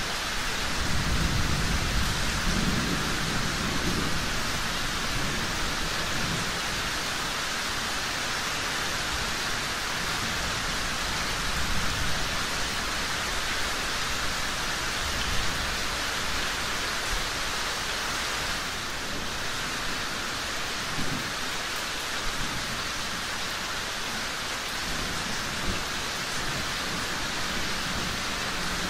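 Steady rain falling, with low rumbles of thunder swelling up a few times.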